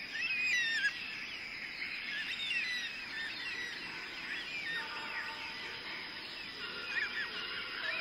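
Birds twittering: many short, wavering chirps throughout, with a few steady tones joining in about five seconds in.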